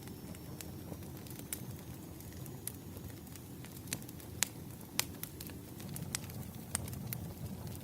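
Wood fire burning, a low steady rumble of flames with irregular sharp crackles and pops from the firewood, a few louder snaps in the middle.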